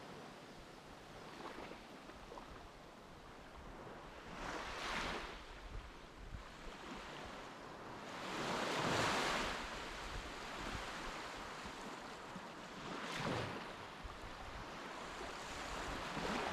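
Waves breaking on a sandy beach, a wash of surf swelling and fading about every four seconds, the biggest about nine seconds in.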